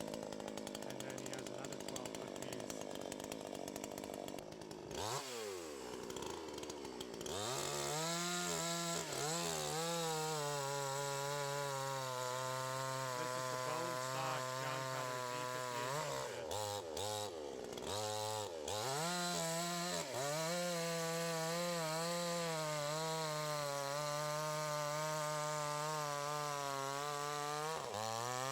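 Gas chainsaw idling at first, then revved up a few seconds in and held at high throttle, its pitch sagging and recovering under load as it cuts. It eases off briefly about two-thirds through, then revs up again.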